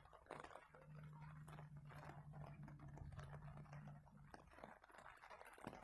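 Near silence: a faint steady low hum that stops about four seconds in, with scattered light clicks and ticks.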